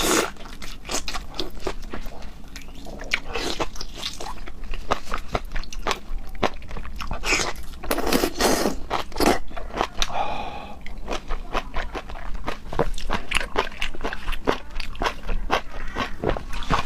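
Close-miked chewing of raw seafood, with a dense run of small mouth clicks and crunches, busiest about halfway through.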